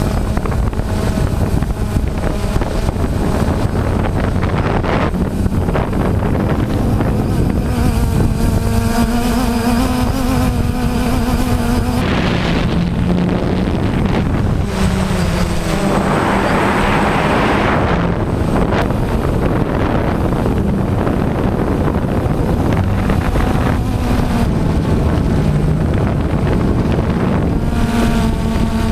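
DJI Phantom quadcopter's motors and propellers running in flight: several whining tones that shift in pitch, under heavy wind buffeting on the microphone. A louder rush of hiss comes for about two seconds a little past the middle.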